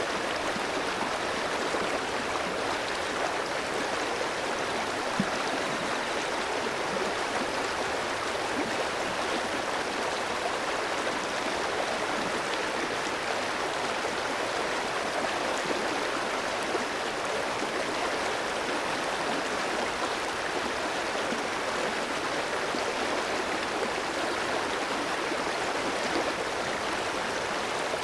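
A clear stream flowing over rocks: a steady, even rush of running water.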